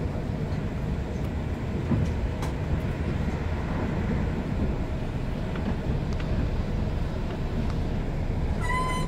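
Intercity passenger train running, heard from inside the carriage: a steady low rumble with a few faint clicks from the wheels on the track. Near the end there is a short, high beep with overtones.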